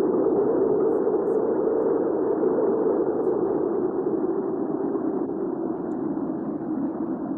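Hurricane wind ambience: a steady rush of strong wind, easing slightly and swelling again.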